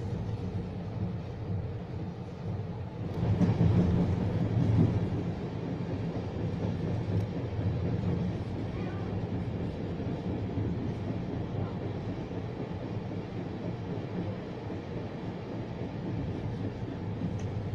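Running noise of a Croatian Railways passenger train moving along the track, heard from inside the carriage: a steady low rumble that swells louder for about two seconds around three seconds in.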